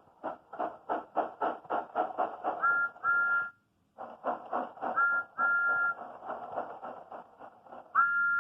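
Steam locomotive chuffing in an even, quickening rhythm, with two-note whistle toots: two short pairs in the middle and a longer blast near the end.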